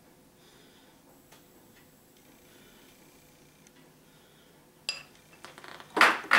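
Quiet kitchen room tone, then near the end a sharp clink with a short ring followed by two louder knocks of kitchenware being handled and set down.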